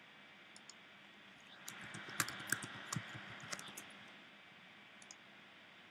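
Faint typing and clicking on a MacBook Pro keyboard, a quick run of key taps about two to three and a half seconds in, with scattered single clicks either side.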